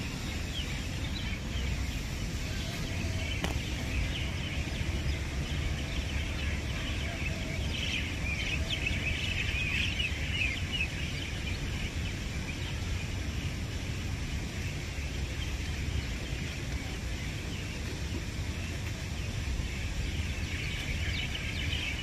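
Small birds chirping and twittering, busiest about eight to eleven seconds in and again near the end, over a steady low rumble.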